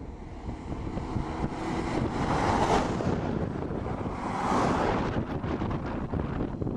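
Strong wind buffeting the microphone, with two gusts swelling and fading about two and a half and four and a half seconds in.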